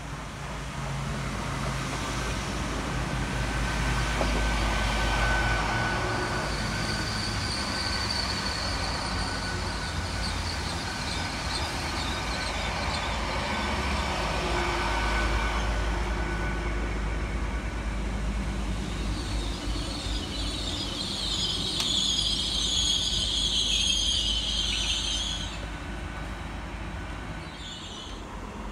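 Train moving through a railway station: a steady low rumble, with a high-pitched squeal that grows loudest about twenty seconds in and fades about five seconds later.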